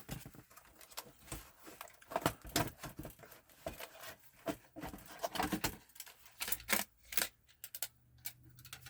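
Irregular clicks, taps and small knocks of plastic console casing parts and screws being handled and taken apart by hand.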